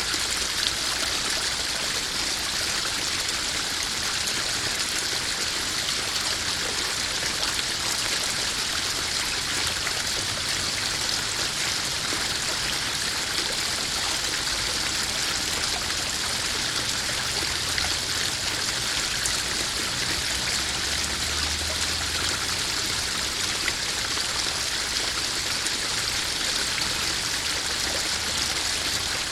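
Small garden pond waterfall splashing and trickling steadily into a koi pond.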